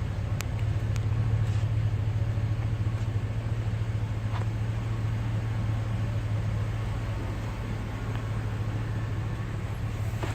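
2004 Chevy Silverado's 5.3L V8 engine idling steadily.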